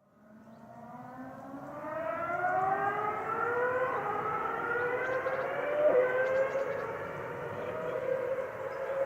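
Racing car engine heard at a distance, its pitch rising slowly and smoothly for about four seconds with no gear-change drops, then holding roughly steady.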